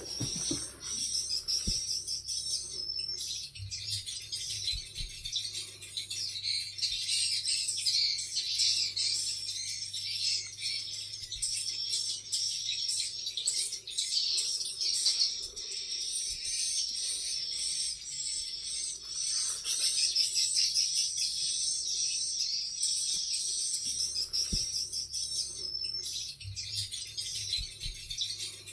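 Dense, continuous high-pitched bird chirping and twittering, many calls overlapping without a break, over a low steady hum.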